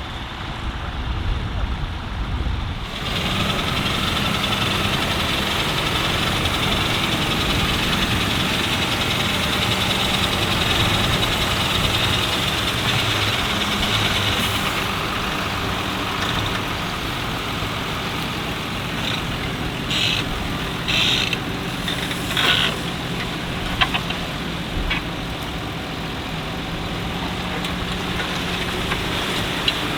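Tractor engine running steadily, getting louder and brighter about three seconds in, with a few brief sharp sounds about two-thirds of the way through.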